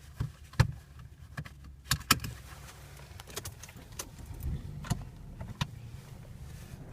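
Gusty wind buffeting the microphone as a low rumble, with a scatter of sharp clicks and knocks, the loudest two within the first few seconds.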